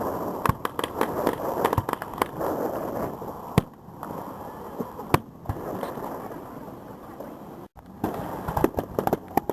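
Fireworks display: a steady crackling with single sharp bangs every second or two. Near the end comes a rapid run of pops.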